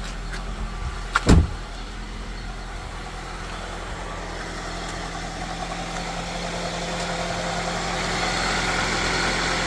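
A Honda CR-V's 2.0-litre four-cylinder engine idling steadily on freshly fitted spark plugs, plug wires, distributor cap and rotor, put in to cure a random misfire. A single sharp knock comes about a second in, and a higher rushing noise grows louder through the second half.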